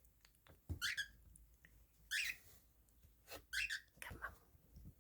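Cockatiel giving short, high chirping calls, about four spaced roughly a second apart, with a couple of faint low thumps between them.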